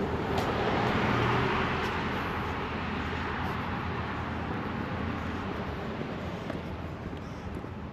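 A car driving past, its road noise swelling about a second in and then fading slowly away.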